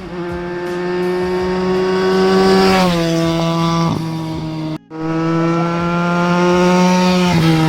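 Benelli TNT 300 parallel-twin motorcycle with an IXIL X60 aftermarket exhaust passing by twice at steady speed, a loud steady exhaust note that drops in pitch as the bike goes past. The two pass-bys are joined by an abrupt cut.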